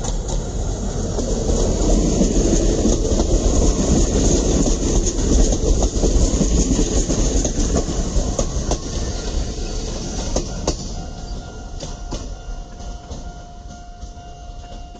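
Chichibu Railway 5000-series electric train passing close by: a rumbling run of wheels on rail that swells as it draws alongside and fades as it moves away, with sharp clacks over the rail joints. Near the end a steady high tone comes in.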